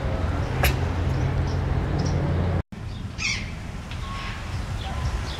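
Low steady rumble with a single sharp click, then, after an abrupt cut, zoo birds calling with short chirps, quick falling whistles and brief held whistled notes.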